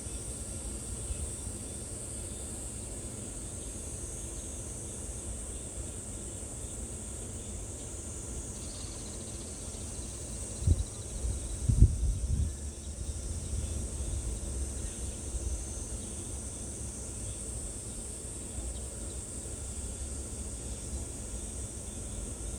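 A steady, high insect chorus running through the whole stretch over a low rumble, with a few loud low thumps about halfway through.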